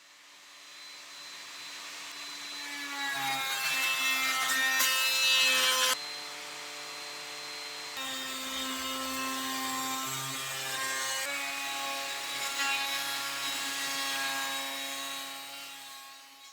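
A power tool running as it works wood, with a steady pitched drone. It fades in, changes abruptly about six and about eight seconds in, and fades out near the end.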